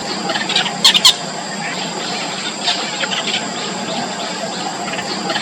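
Bittern nestlings in the nest making repeated short, high squeaky begging calls, with a louder burst of sharp calls about a second in.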